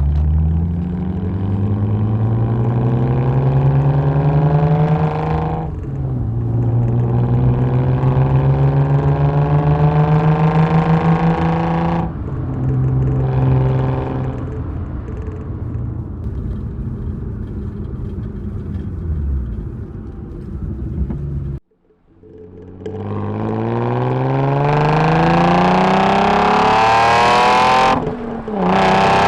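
Nissan 350Z's VQ35 V6 through an Invidia Gemini cat-back exhaust, accelerating hard through the gears. The revs climb steadily in each gear, with the pitch dropping at upshifts about 6 and 12 seconds in, then the engine eases off. After a brief break about two-thirds of the way in comes another full-throttle pull, with a shift near the end.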